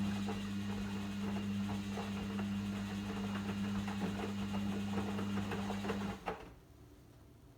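Logik L712WM23 washing machine giving a steady electrical hum with a dense rattling over it, which stops abruptly about six seconds in, followed by a single sharp click.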